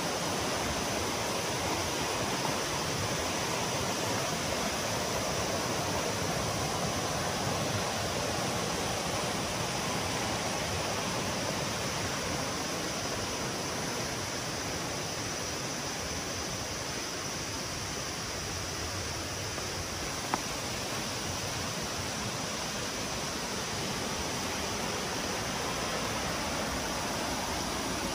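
Steady rush of a waterfall, an even hiss of falling water without a break, with one faint click about twenty seconds in.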